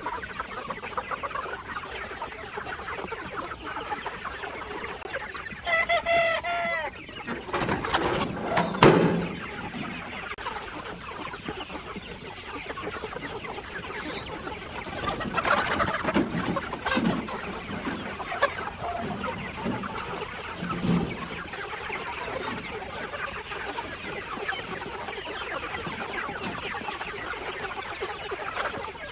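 A flock of chickens clucking steadily, with a rooster crowing once about six seconds in. A brief louder burst of noise follows a couple of seconds later.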